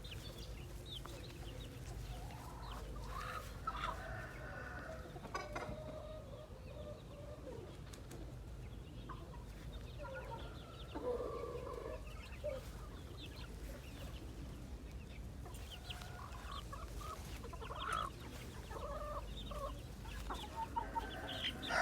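Chickens clucking softly in short, scattered calls over a low steady rumble.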